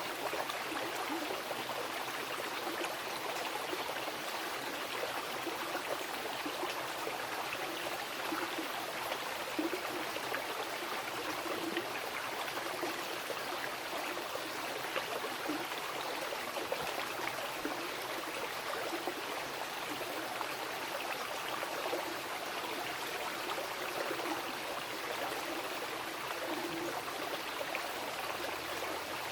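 Wild mountain river flowing: a steady, even rush of water with small burbles low down.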